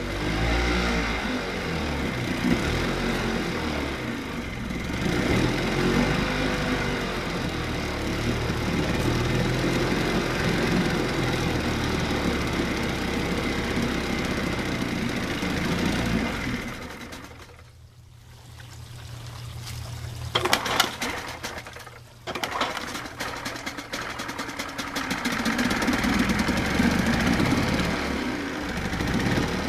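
1993 Evinrude 25 hp commercial two-stroke outboard running in a water test tank, its revs rising and falling. About seventeen seconds in it goes nearly quiet for a few seconds, there is a short burst of sharp clattering, and then it runs again, building up toward the end.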